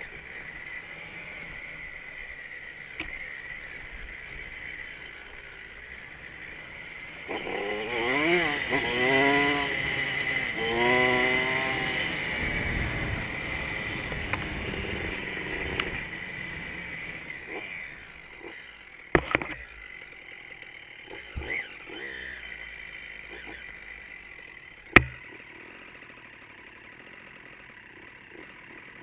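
Dirt bike engine on a trail, revving up and down repeatedly for a few seconds about a quarter of the way in, then running more evenly, with a few sharp knocks in the later part.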